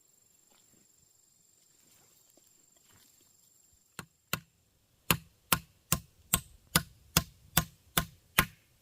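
Quiet at first, then a tool striking wood: two blows about four seconds in, then nine loud, evenly paced blows, a little over two a second.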